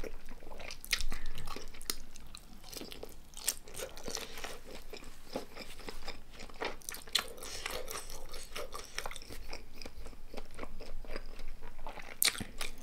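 A person chewing and biting crunchy food close to the microphone, with many small, irregular crackling crunches.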